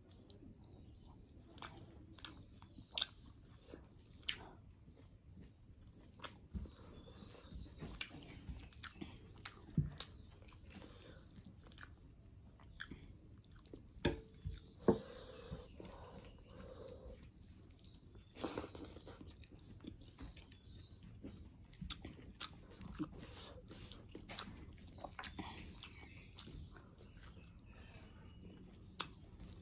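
Close-up eating sounds: a person chewing and biting rice and small fish eaten by hand, with many wet mouth clicks and smacks and now and then a crunch. A couple of louder clicks come about halfway through.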